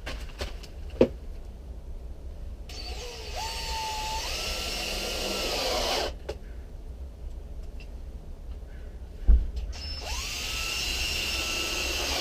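Power drill driving screws to fix brick wall ties to the house, in two runs of about three seconds each, its motor pitch rising as it spins up. Two sharp knocks come before the runs, the louder one just before the second run.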